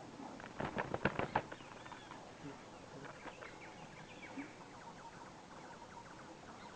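Birds chirping lightly, with a quick flurry of sharp clicks and rustling about a second in.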